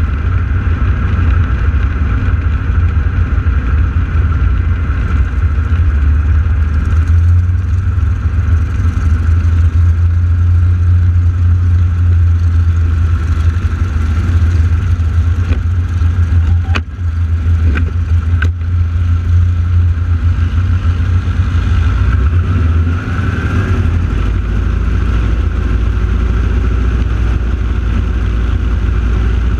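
Radial engines of T-6 Texan aircraft running on the ground before takeoff, a loud, steady low rumble. About two thirds of the way through, the rumble drops lower in pitch, and there are two brief clicks a little past the middle.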